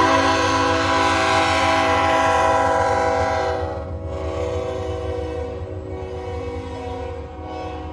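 Diesel freight locomotive's air horn sounding one long chord, loud at first and dropping in level about three and a half seconds in, over the low steady rumble of the train.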